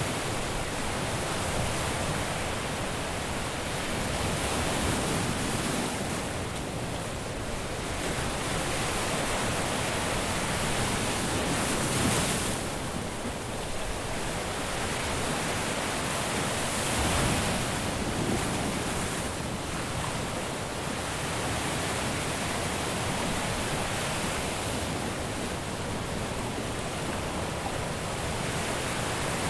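Caribbean surf washing steadily onto a beach, with waves breaking in slow swells that peak about twelve and seventeen seconds in.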